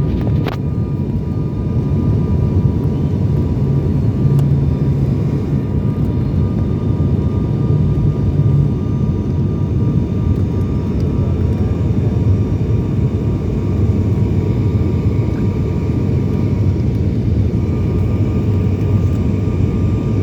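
Steady engine and airflow noise heard inside an airliner cabin on the approach to landing: a dense, even low rumble with a couple of faint steady tones above it.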